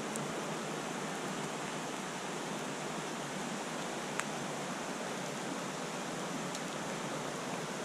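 River water rushing steadily over rocks and rapids. A single short click comes about four seconds in.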